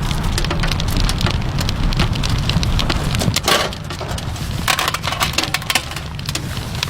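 Rain falling, with many drops ticking sharply on a nearby surface over a steady low rumble; the drops come thicker and louder in spells about three and a half and five seconds in.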